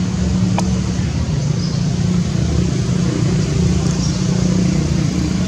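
A motor vehicle's engine running steadily, with a single short click about half a second in.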